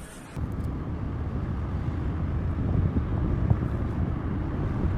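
Steady low rumbling outdoor noise that starts abruptly about half a second in, with no distinct events in it.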